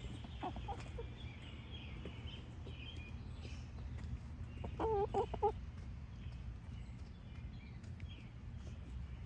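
Orpington hens clucking: a few soft clucks near the start, then a louder quick run of four clucks about halfway through.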